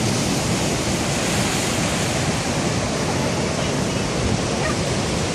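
Ocean surf washing against a rocky shore: a steady, unbroken rush of noise.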